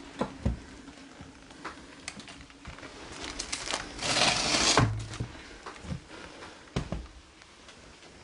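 Scattered light knocks and clicks, with a burst of rustling or scraping noise lasting about a second, starting about four seconds in.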